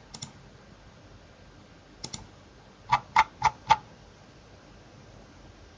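Computer keyboard keys clicking: a quick double click near the start, another about two seconds in, then four presses in quick succession about three seconds in.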